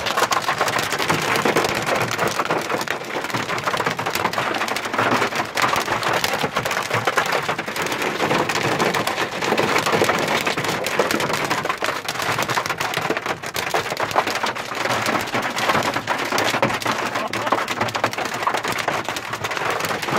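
Heavy rain and hail pelting down: a dense, steady hiss full of many sharp ticks of hailstones striking.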